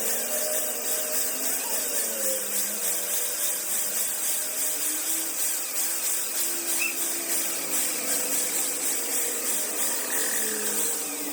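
A tool working metal in quick, even strokes, about three a second, with a scraping, grinding sound.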